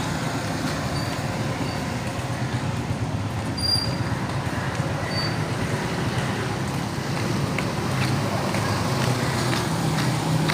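Steady road traffic noise, vehicles running by on a wet street.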